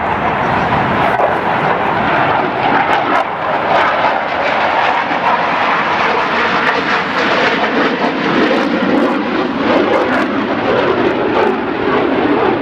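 Airplane flying past, a loud steady engine rush whose pitch slowly falls as it goes by.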